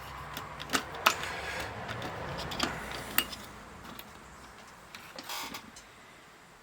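Scattered light clicks and taps of small objects being handled on a workbench, with a brief rustle about five seconds in, fading toward quiet near the end.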